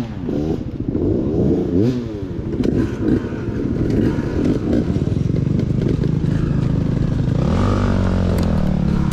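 KTM 300 XC TBI two-stroke dirt bike engine under way on the trail, its pitch rising and falling with the throttle in the first couple of seconds, then running steadier with a drop in revs near the end. Clattering from the bike over rough ground.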